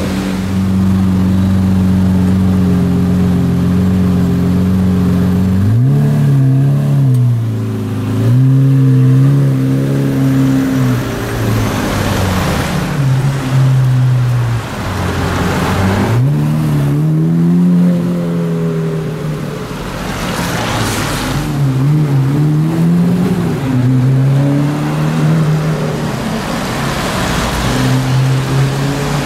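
Lamborghini Murcielago LP670-4 SV's naturally aspirated V12 running steadily for about the first six seconds, then revved and driven off, its pitch rising and falling again and again. Now and then there is a hiss of tyres on the wet road.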